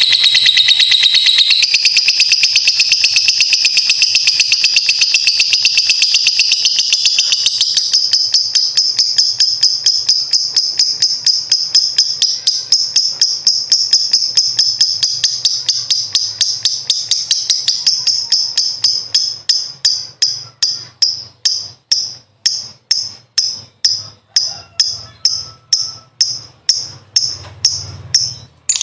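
Lovebird giving its long ngekek song: a high, very rapid chattering trill that runs on unbroken, then about two-thirds of the way through breaks into short runs about twice a second before stopping.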